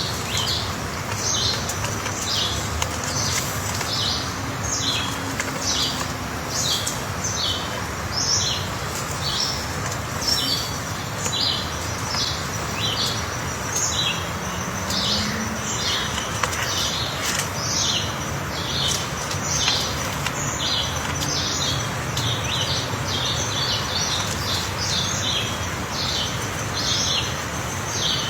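Bird chirping over and over: short high calls about one or two a second, over a steady background hiss.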